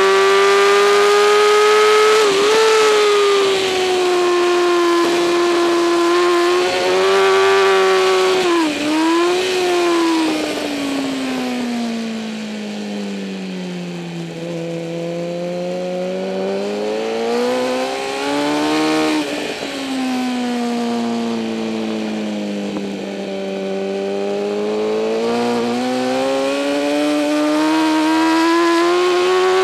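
2008 Kawasaki ZX-10R inline-four sport bike engine racing on track: it runs at high revs, drops in pitch with quick dips as it is downshifted into corners, falls to its lowest about halfway through, then rises again, dips once more and climbs back to high revs near the end.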